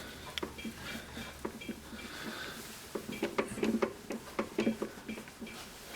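Small metal clicks and clinks from the EMCO Compact 5 lathe's slide being cranked back by hand, irregular throughout and busier and louder from about three seconds in.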